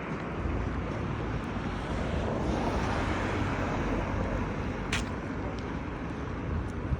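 Street traffic noise, a steady rush of passing vehicles, with wind rumbling on the microphone and one brief click about five seconds in.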